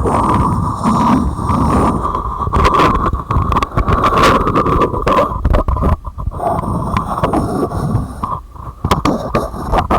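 Close-miked tapping and scratching on containers and their lids: a dense run of quick taps over continuous rubbing, briefly easing about six seconds in and again near the end.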